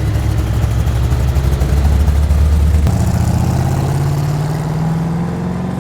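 A performance car's engine running at low revs. About three seconds in, its note changes and climbs slowly as the car pulls away.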